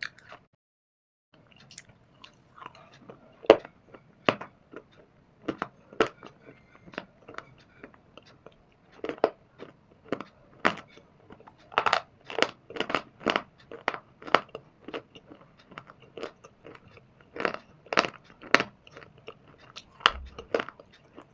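Dry shale stone and baked clay (mitti) being bitten and chewed close to the microphone: a long run of sharp, brittle crunches at an irregular pace, coming in quick clusters. There is a short pause about a second in.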